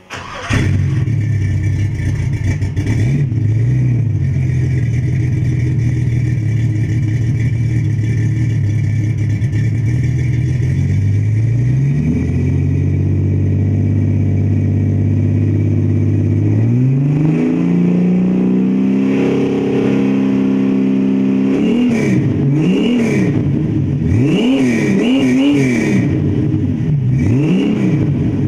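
Ford Falcon six-cylinder engine starting up, running loud through a home-built exhaust centre section: a chamber muffler and no rear mufflers. It idles, steps up to a steady 2,000 rpm and then 4,000 rpm, and finishes with a series of quick throttle blips that rise and fall.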